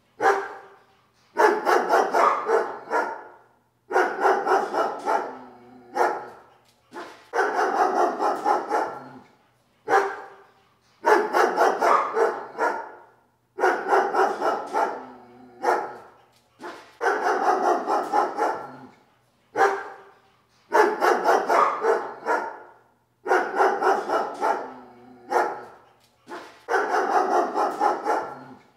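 A dog barking in repeated bouts. Each bout is a quick run of barks lasting one to two seconds, with shorter single barks between bouts, repeating at a steady, regular rhythm every few seconds.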